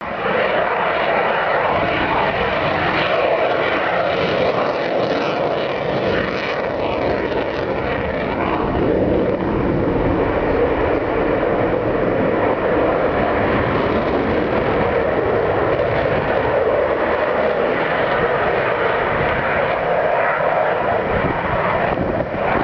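F-16 fighter jet flying a slow pass on full afterburner: a loud, steady jet roar with a ragged crackle through it.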